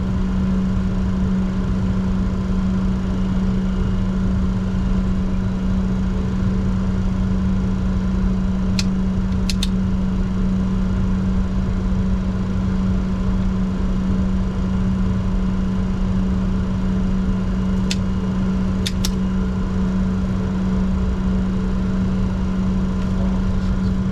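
Steady cockpit noise of a Bombardier Challenger 604 under take-off or climb power: its General Electric CF34 turbofans and airflow giving an even roar with a constant low hum. A few brief clicks come about a third of the way in and again about three-quarters through.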